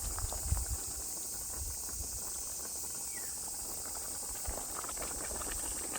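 A wood fire under a simmering pot of duck broth, with faint scattered crackles, over a steady high insect drone; low rumbles come and go.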